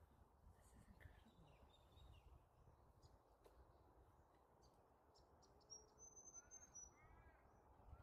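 Near silence with faint bird calls. In the second half there is a thin, high whistling call and a few short arching calls, over a low rumble.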